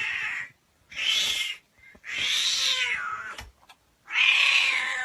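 A cat yowling repeatedly: four long, harsh calls of about a second each, separated by short pauses.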